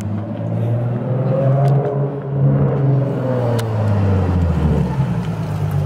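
Nissan 370Z's 3.7-litre V6 running at low revs as the car rolls up and pulls in, its deep note rising a little and settling back near the middle.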